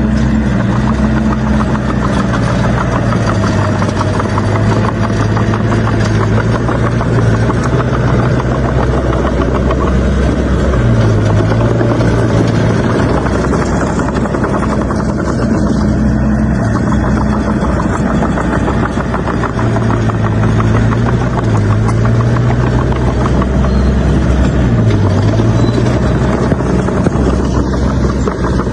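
Heavy-equipment diesel engine running loud and steady, its pitch stepping up and down every few seconds.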